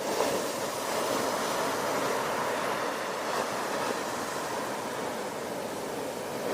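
Ocean surf: a wave breaks right at the beginning and its wash carries on as a steady rush of foaming water.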